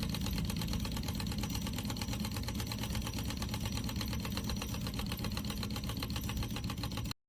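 Diesel engine education model running, its moving parts making a steady, rapid, even clatter. The sound cuts off suddenly near the end.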